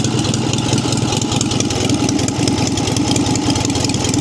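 1946 JAP 55 single-cylinder stationary petrol engine running steadily at its governed speed.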